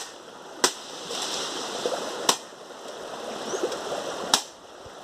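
Three sharp chopping strikes of a blade into wood, evenly spaced about every two seconds, with rustling between them.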